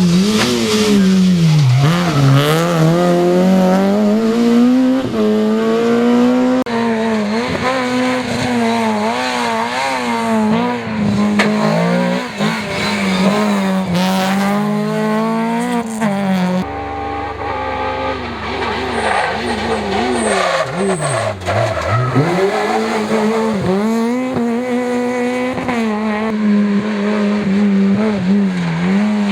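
Rally car engines driven hard on a stage, the revs climbing and dropping sharply through gear changes and lifts for corners. The sound changes abruptly twice as one car cuts to the next.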